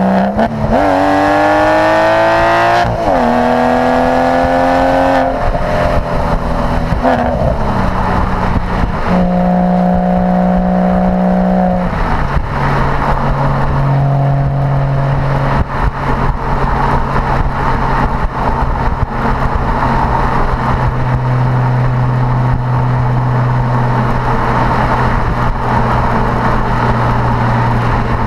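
Porsche Boxster with a sports exhaust accelerating, the engine note climbing and falling back at upshifts about three and five seconds in. It then holds a steady, even note for the second half.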